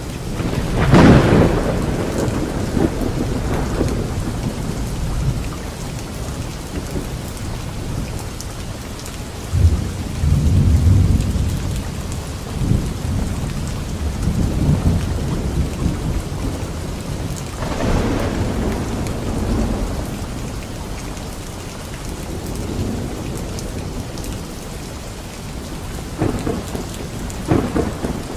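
Steady rain falling on leaves during a light thunderstorm, with thunder rumbling several times: a sharp crack and rumble about a second in, a deep rolling rumble around ten seconds in, another clap a little past the middle, and more near the end.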